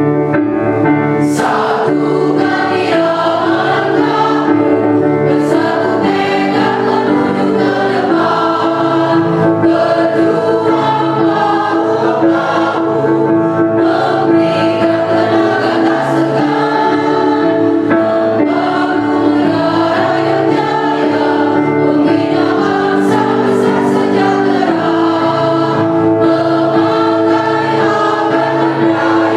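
A choir singing a march song.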